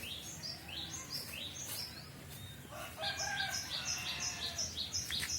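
A small songbird chirping a run of short, high, repeated notes that speed up to about three a second partway through. A rooster crows in the background at the same time.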